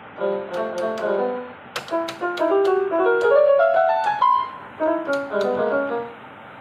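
Casio electronic keyboard played in a piano-like voice: a few chords, a rising run of notes, then a short closing phrase, each note starting with a key click. It sounds again after its dead fault was repaired.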